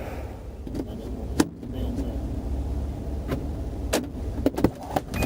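Steady low rumble of an idling car heard from inside the cabin, with scattered sharp clicks and knocks. The loudest knock comes about a second and a half in, and a cluster follows in the last two seconds.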